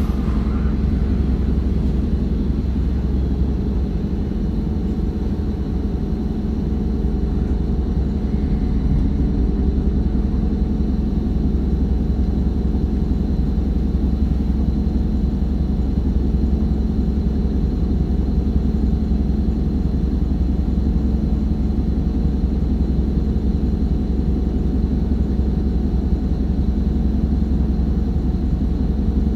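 Hino Blue Ribbon city bus on the move, heard from inside the cabin: a steady low diesel engine drone with road noise, easing slightly for a few seconds early on before settling back to an even level.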